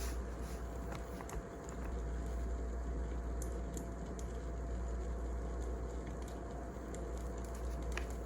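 Wood fire burning, a steady hiss and rumble with a few sharp crackles and pops scattered through.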